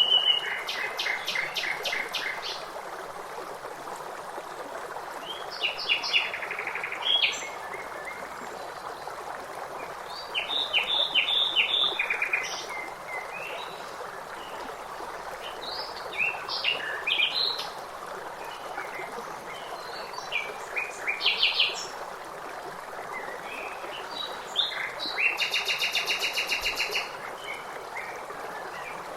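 Small songbirds singing short rapid chirping phrases every few seconds over the steady rush of running stream water.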